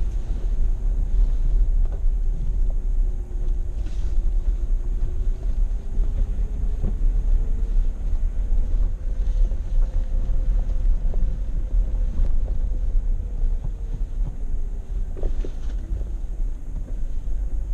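Vehicle engine driving slowly over a rough dirt track: a deep steady rumble with a faint engine tone that slowly rises and falls, and a few sharp knocks from bumps.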